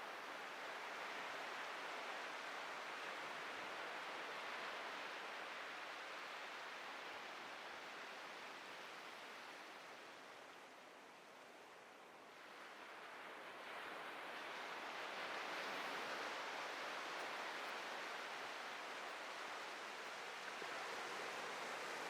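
Atlantic ocean surf washing on a beach, a steady rushing hiss that ebbs a little about halfway through and then swells again as the next wave comes in.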